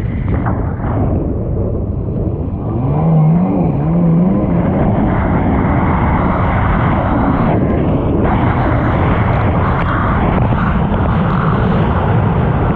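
1999 Sea-Doo XPL's two-stroke engine running loud and steady under way, revving up with a wavering rise in pitch about three seconds in, mixed with wind noise.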